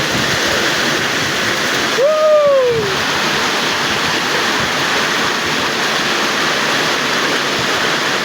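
Torrential rain pouring down in a steady, even hiss. About two seconds in, a brief voice exclamation rises and falls over it.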